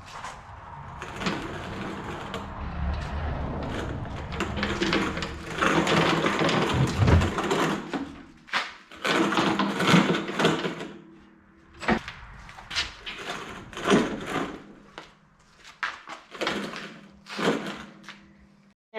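A heavy box blade being shoved and rolled on wheeled pallets and knocked into place, with irregular scraping, rattling and sharp clunks over a low steady hum. The noise is busiest in the first half and turns into scattered knocks near the end.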